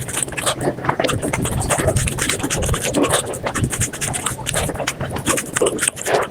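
Sped-up eating sounds: rapid, dense crunching, chewing and smacking of a mouth eating spicy fried chicken skin and rice, running at five times normal speed.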